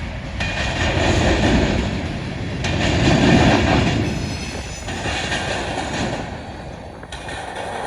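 Freight train of grain cars rolling past, steel wheels rumbling and clattering on the rails in swells, with a faint high wheel squeal about halfway. The noise eases off near the end.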